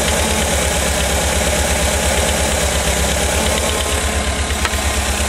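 1985 VW Vanagon's 1.9-litre water-cooled flat-four (Wasserboxer) engine idling steadily with an even low pulsing, running with the vacuum advance connected and the ignition timing just set near the middle of the marks.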